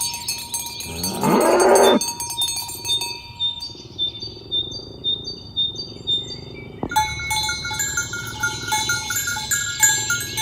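A cow gives one short moo about a second in, rising in pitch. Bell-like clinking carries on throughout as many small clear dings at a few fixed pitches, thinner in the middle of the stretch.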